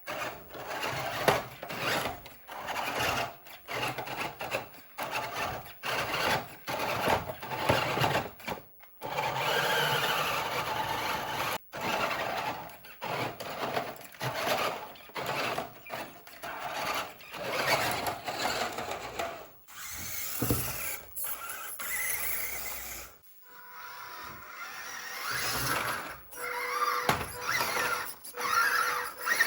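Small electric motors and gears of toy remote-control cars whirring in short, irregular start-stop bursts as they are driven, with squeaking and rattling.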